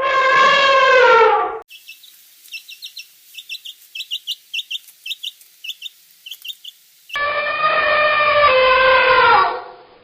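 A long, drawn-out animal call that dips slightly in pitch, then about five seconds of quick, high bird chirping, then a second long call that falls a little and fades near the end.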